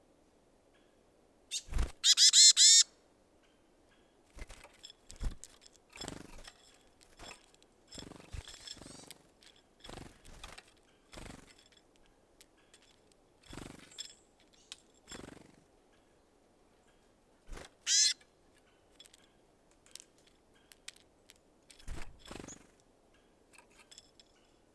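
Wild birds at a seed feeder: a loud, harsh call repeated in quick notes about two seconds in, and a short sharp call near 18 seconds. Frequent light taps and knocks run between them as birds land and work at sunflower seeds.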